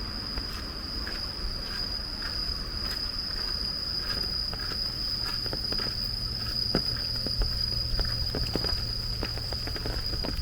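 Rain-walk ambience: scattered drips and taps, with footsteps, more of them in the second half. Under them runs a steady low rumble, and over them a continuous high-pitched insect whine.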